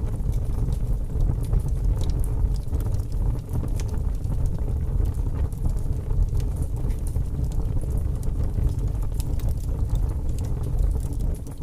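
Wood fire burning in a fireplace: a steady low rumble with many small, scattered crackles and pops.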